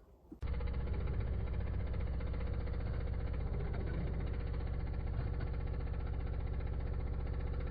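De'Longhi Stilosa espresso machine's pump buzzing steadily as the machine runs, starting about half a second in.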